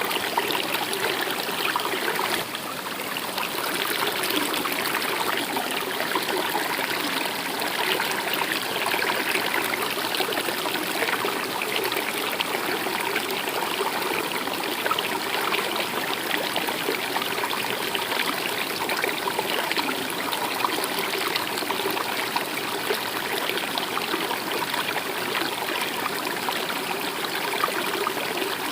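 A stream running steadily over rocks, a continuous rushing and trickling of water that dips briefly about two and a half seconds in.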